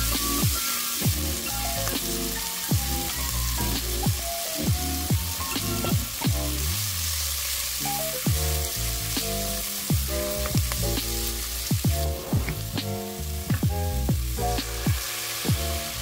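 Beef and green onion sizzling in oil as they are stir-fried in a nonstick pot with a spatula. Background music with a steady beat plays over it.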